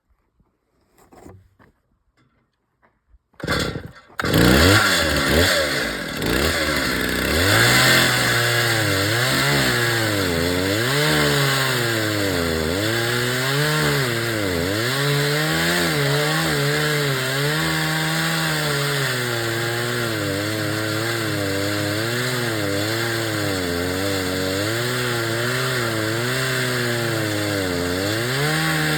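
Large chainsaw in an Alaska chainsaw mill starts up about four seconds in, then runs at high speed ripping lengthwise along a log. Its engine pitch repeatedly sags and recovers as the chain loads up in the cut.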